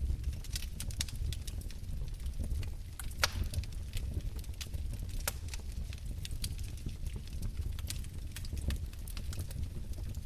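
Wood fire in a fireplace crackling: irregular pops and snaps over a low steady rumble, with one louder pop about three seconds in.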